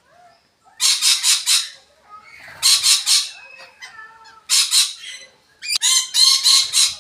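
Parrots squawking: four bursts of harsh, screeching calls, each a run of several quick notes, the last one opening with a few clearer, more tuneful notes.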